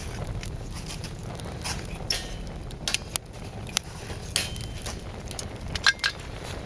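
Hardwood fire burning in a small metal wood stove, crackling with scattered sharp pops over a steady low rumble.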